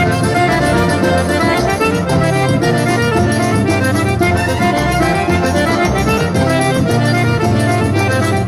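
Instrumental forró music led by accordion, with a steady beat.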